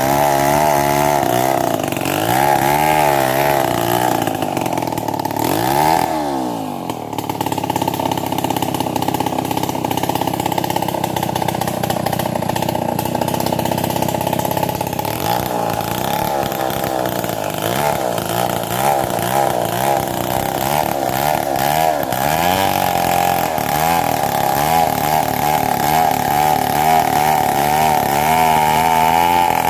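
Two-stroke chainsaw running and cutting mahogany, its engine pitch rising and falling as it works. About six seconds in it drops low and climbs back, then holds steadier for a while before swinging again.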